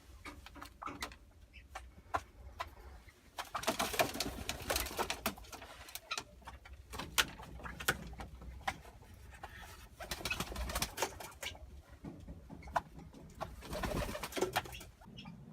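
A dove cooing in several separate spells, with scattered light clicks and rustling between them.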